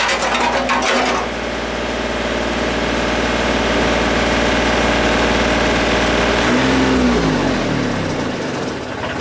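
Tractor loader backhoe engine running steadily, with some clattering in the first second, then shut off and spinning down to a stop about seven seconds in, its pitch falling as it stops.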